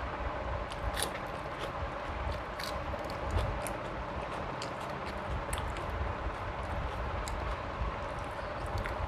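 Close-up chewing with scattered short mouth clicks, a few times a second at most, from a person eating rice and curry.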